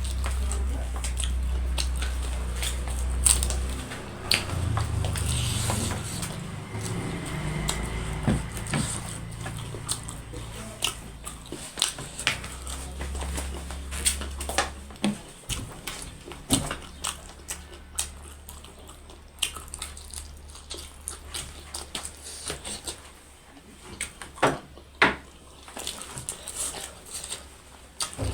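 Close-up eating sounds: irregular sharp clicks of chewing and mouth smacking, with a low rumble underneath at times.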